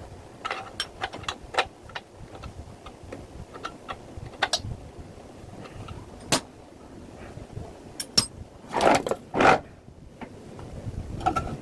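Irregular clicks and light metallic knocks, as of metal parts and tools being handled, with two short, louder noisy bursts about nine seconds in.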